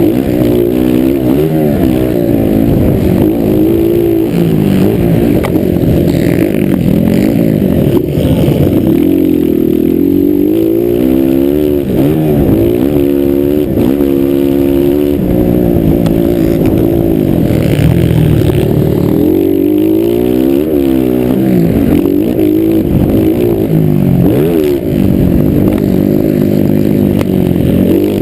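Several motocross bike engines revving hard, their pitch climbing and dropping again and again, with overlapping engines at different pitches.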